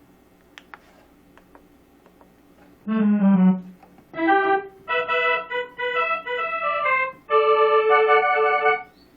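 Korg N364 workstation keyboard playing a short phrase on an accordion-like patch with its musette voice just switched on: a brief note about three seconds in, then a run of notes and chords ending in a held chord. A few faint clicks come before the playing.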